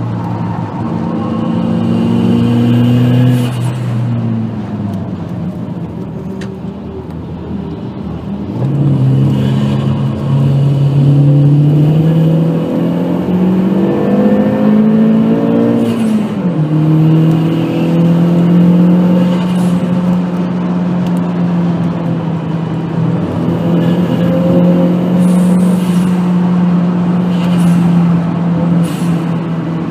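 Skoda Octavia's turbocharged 1.8-litre 20-valve four-cylinder heard from inside the cabin, driven hard on track: the revs sag about four seconds in, climb steadily from about eight seconds, drop sharply at an upshift around sixteen seconds, then hold high and steady, over tyre and road noise.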